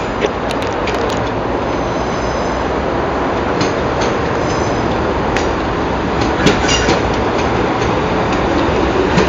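Electric passenger train running along the platform: a steady rumble of wheels on rails that builds slightly, with a few sharp clicks and a faint high wheel squeal.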